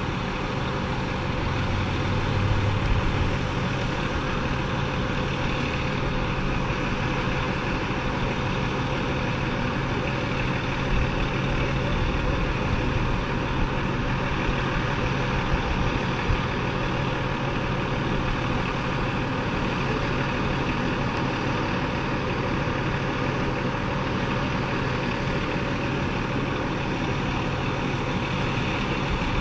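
Fire engine's diesel engine running steadily, an even low drone with no siren.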